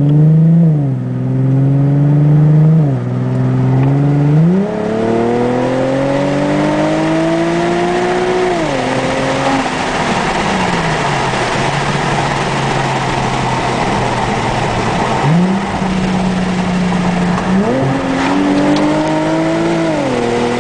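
Infiniti G37 Sport's 3.7-litre V6 through a Greddy TI-C dual catback exhaust, heard from inside the car with the windows down, accelerating through several automatic gear changes: the pitch climbs and drops at each upshift, then falls away as the car eases off. Wind and road noise fill the middle stretch before the engine climbs through the gears again near the end.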